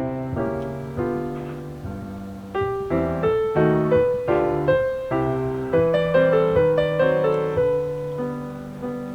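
Background piano music: a gentle melody of single struck notes over soft chords and a bass line, several notes a second, each fading after it is played.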